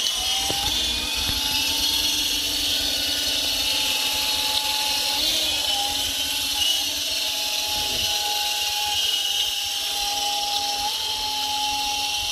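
Small battery-powered RC helicopter in flight: a steady electric motor whine over rotor hiss, the pitch dipping briefly twice as the throttle changes.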